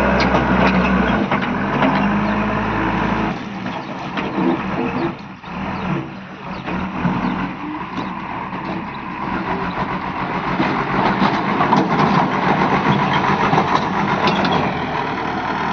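Heavy diesel machinery running. Its low drone changes about one second in and again about three seconds in, then settles into steady running with some clatter.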